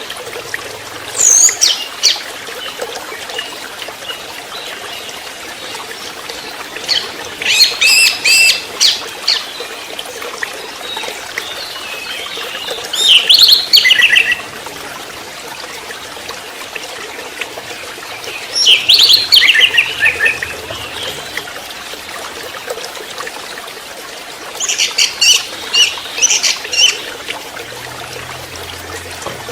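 Young orange-headed thrush (anis merah trotol) calling and singing in five short bursts of rapid, high chirping phrases, a few seconds apart, over a steady trickle of water.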